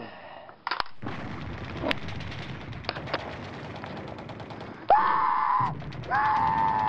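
Crackling gunfire-like noise with scattered sharp pops, then two long screams from a person, about five and six seconds in.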